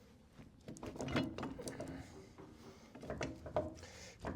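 Irregular light clicks and knocks of metal parts being handled and fitted together during reassembly of a Farmall Cub tractor's steering gear.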